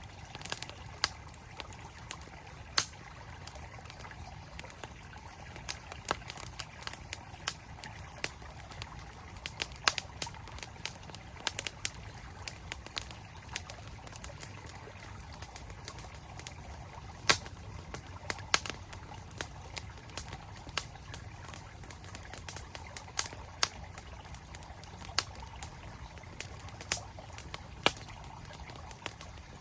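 Wood campfire crackling with frequent, irregular sharp pops over the steady rush of a flowing mountain stream.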